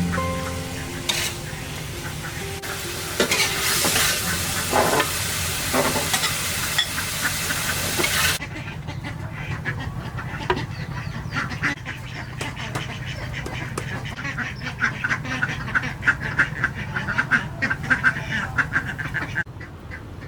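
Food sizzling as it fries, with a utensil stirring and scraping in the pan. About eight seconds in the loud sizzle cuts off, leaving quick clicks and scrapes.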